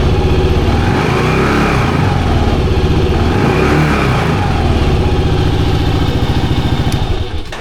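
Kawasaki KLR 650's single-cylinder engine running, revved up and down a couple of times. The sound cuts off sharply at the very end.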